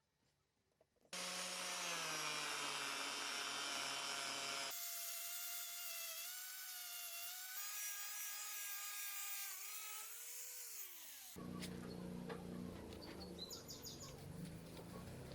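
Electric power tool used for buffing metal, whining as it runs, its pitch sagging and recovering under load across several abrupt cuts; about ten seconds in it winds down. A rougher, noisier stretch with light knocks follows.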